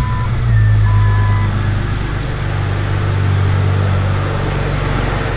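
Jeep Cherokee XJ's 4.0-litre straight-six idling steadily, just restarted after its fuel injector O-rings were replaced. Two brief high tones sound in the first second and a half.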